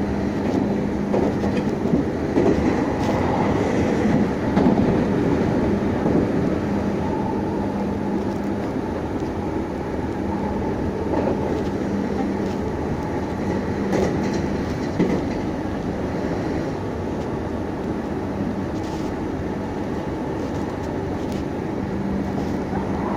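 Running noise inside a Meitetsu 6500 series electric train car in motion: a steady rumble of wheels on rail with a few faint rail-joint clicks. A low steady hum fades out about eight seconds in and comes back near the end.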